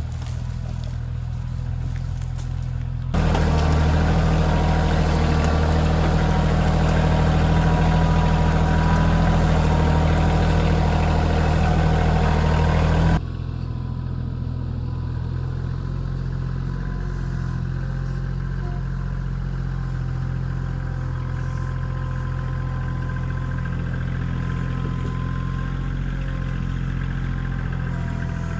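Kioti CK2610 compact tractor's diesel engine running steadily. From about three seconds in to about thirteen seconds it is louder and fuller, then drops back abruptly to the steadier level.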